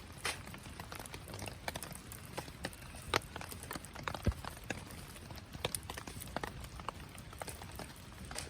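Wood fire crackling in a Picogrill fire pit: irregular sharp pops and snaps, several a second, over a steady low rush of burning.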